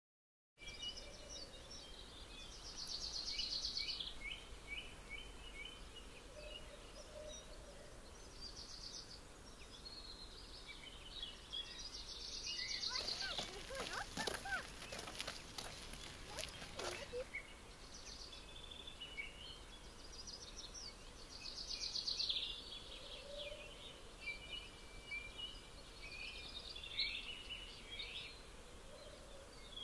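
Small birds singing and calling in short high phrases every few seconds over faint steady outdoor background noise. About halfway through comes a louder stretch of crackling noise lasting a few seconds.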